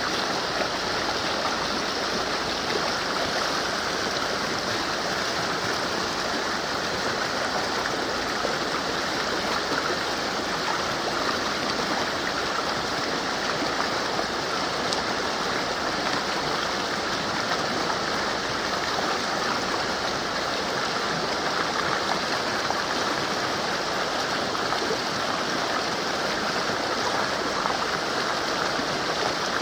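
Mountain river rushing over rocks, a steady, unbroken wash of water noise.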